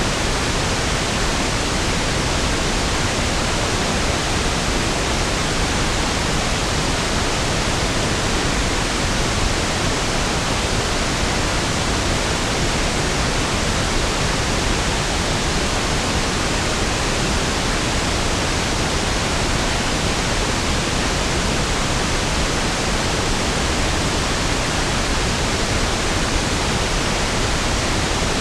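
Steady pink noise (1/f noise): an even, unbroken hiss, smoother and deeper than white noise, with no changes.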